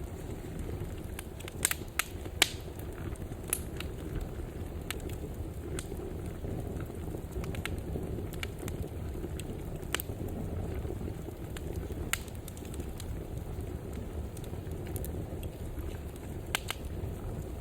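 Wood fire burning in a fireplace: a steady low rumble of flames with scattered sharp pops and crackles, the loudest pair about two seconds in.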